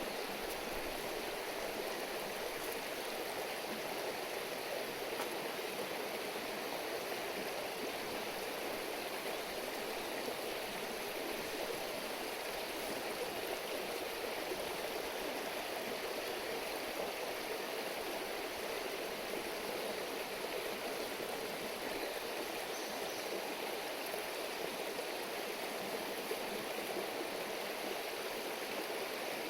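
Shallow river babbling and rushing steadily.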